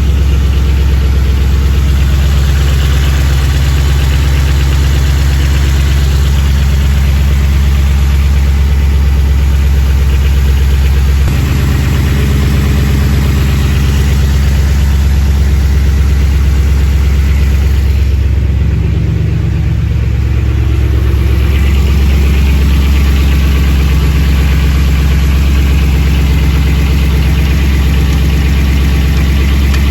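Cold twin-turbo, fuel-injected engine idling on E85 with a rattling noise: piston slap while it is cold, which should quiet down as the engine warms up.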